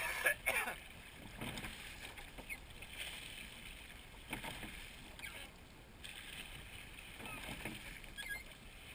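Oars of a crewed seine boat pulling through the water, a soft swish and splash with each stroke every second or two.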